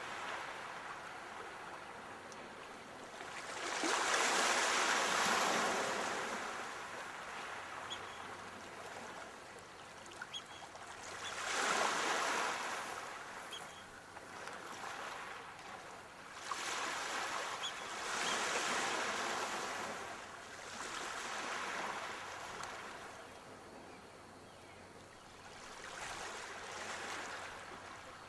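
Sea waves washing onto a shore, swelling and fading in surges every few seconds, with the louder breakers about four and twelve seconds in.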